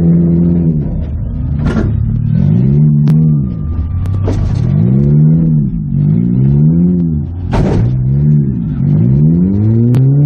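Toyota Matrix's four-cylinder engine heard from inside the car, revving up and dropping off again and again as the demolition derby car is driven back and forth, with several sharp bangs along the way.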